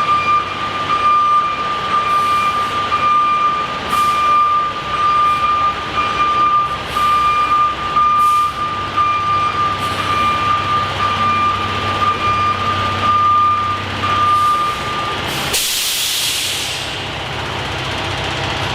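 Heavy truck backing up with its backup alarm sounding steadily over the diesel engine. About fifteen seconds in the alarm stops and a short, loud hiss of released air follows, typical of the air brakes being set, then the engine idles.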